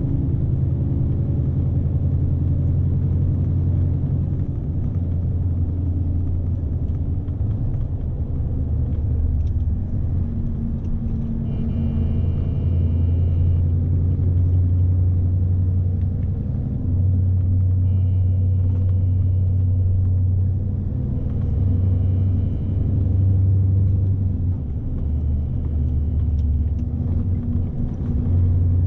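Scania S520 truck's V8 diesel running steadily, heard from inside the cab as a deep drone. Faint high tones come and go a few times in the second half.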